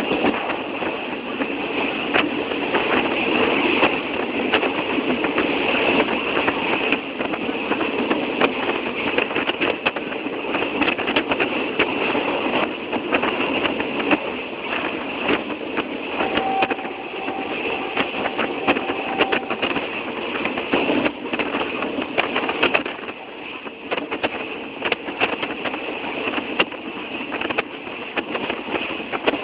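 Old passenger train running, a steady rattling, clattering noise full of small knocks, with a thin steady tone sounding for about three seconds midway.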